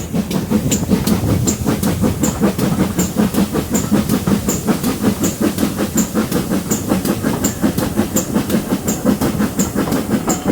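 Great Western Railway tank steam locomotive working hard up a steep gradient, its exhaust beating in a fast, even rhythm of about four to five beats a second.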